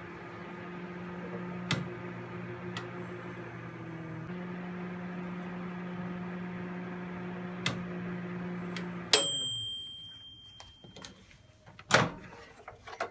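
Iris Ohyama microwave oven heating at 500 watts with a steady low hum and a few faint clicks. About nine seconds in the hum stops and a single ding rings out and fades, the dial timer running out. A loud click follows near the end.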